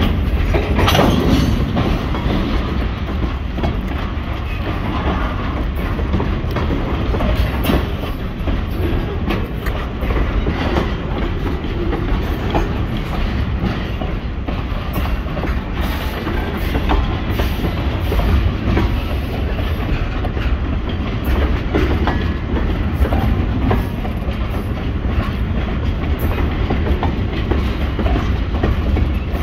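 Freight train cars, tank cars and boxcars among them, rolling past close by at a steady pace: a continuous low rumble with frequent short clicks and clacks from the wheels on the rails.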